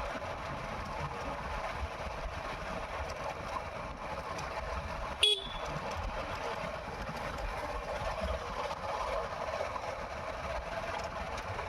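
Steady vehicle running noise, with one short horn toot about five seconds in.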